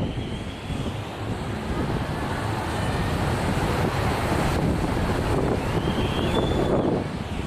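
Wind buffeting the microphone with a steady low rumble. Twice, a faint high arched call, typical of a herring gull, cuts through, once at the start and again near the end.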